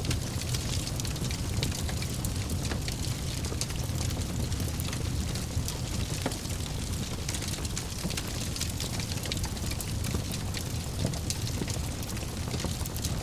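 Fire burning in a fireplace: a steady low rumble of flames with many small crackles and pops.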